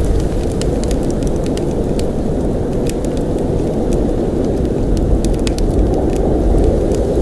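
Heavy blizzard wind: a steady low rushing, with scattered small sharp ticks over it.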